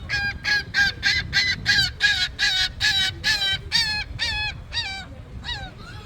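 A gull calling: a fast run of about twenty loud, harsh repeated calls, about four a second, slowing with notes that drop in pitch near the end.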